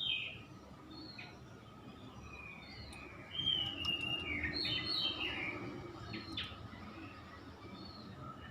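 Oriental magpie-robin (kacer) singing in varied phrases of clear whistles and chattering notes, loudest a few seconds in.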